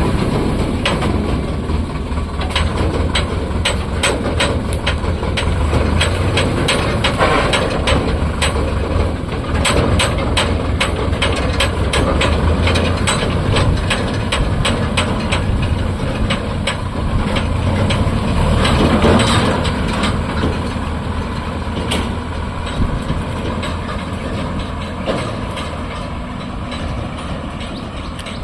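Sonalika DI 750 tractor's diesel engine running with a steady low drone, over a dense run of sharp clicks and rattles. The sound eases off somewhat near the end.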